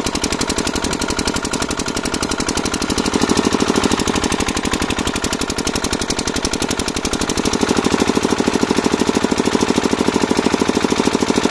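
A machine running with a rapid, even hammering pulse, growing louder about three seconds in and again about seven and a half seconds in.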